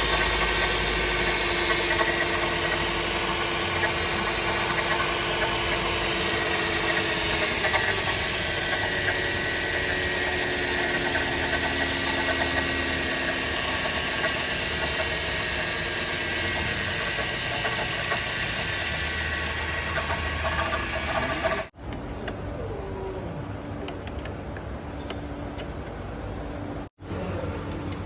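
Toyota Vios engine running with a loud noise from the front of the engine, the sign of a failing water pump. About three-quarters of the way through, the sound cuts off suddenly and gives way to quieter running.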